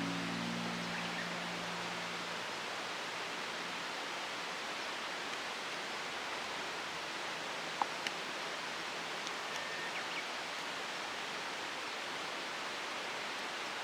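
Steady, even outdoor hiss of ambient noise, with a single faint click about eight seconds in.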